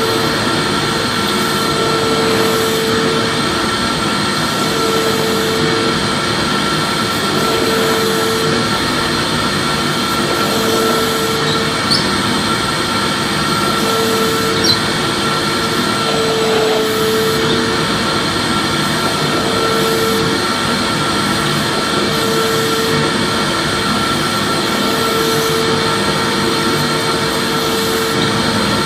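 Vacuum cleaner running steadily, a constant motor whir and airflow rush with a humming tone that swells and fades every couple of seconds.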